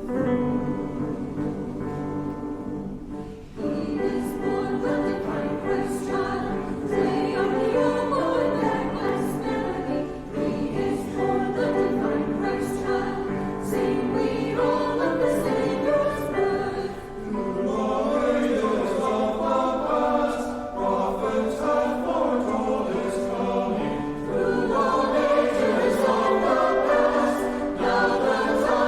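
Church choir singing an anthem in parts, coming in about three and a half seconds in over sustained keyboard chords, with the singers' 's' sounds standing out at regular intervals.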